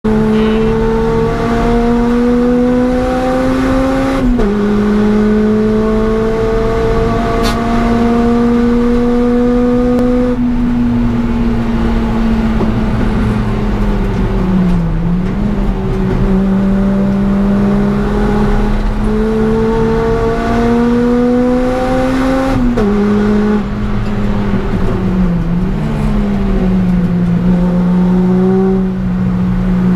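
Honda Civic Type R EP3's 2.0-litre four-cylinder engine, with an aftermarket 4-2-1 manifold and Scorpion resonated cat-back exhaust, heard from inside the cabin under hard track driving. The note climbs slowly as it pulls through the gears, with a sudden drop at each upshift about four seconds in and again about three-quarters through. Between them the revs sag as it lifts off and downshifts.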